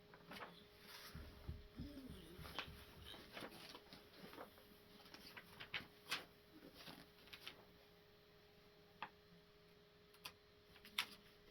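Scattered light clicks and taps of small plastic kit parts and packaging being handled, the sharpest about six seconds in, over a faint steady hum.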